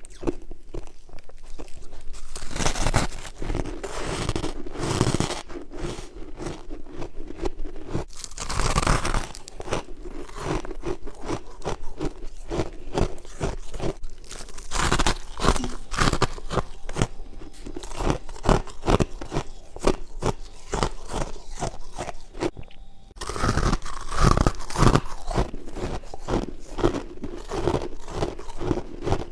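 Close-up crunching and chewing of white frost: a dense run of rapid crackly crunches, with louder fresh bites about three seconds in, near nine seconds and again around twenty-four seconds in.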